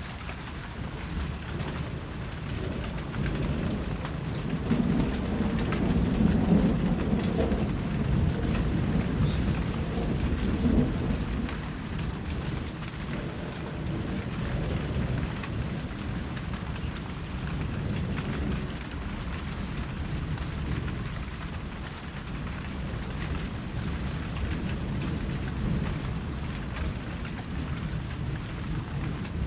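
Steady rain falling, with a low roll of thunder that swells a few seconds in and fades away again before the middle.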